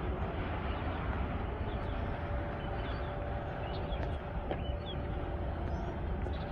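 Steady outdoor background noise with a strong low rumble and hiss, and faint short high chirps scattered through.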